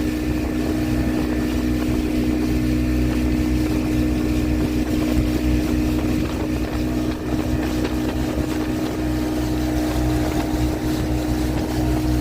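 Motorboat engine running steadily: a constant droning hum with a low rumble, unchanging in pitch.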